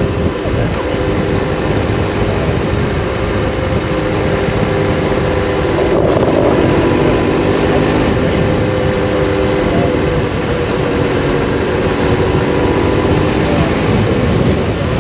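Triumph Explorer 1200's three-cylinder engine running steadily under way, with heavy wind and road rumble on the on-board microphone. The engine note swells briefly about six seconds in, then settles back.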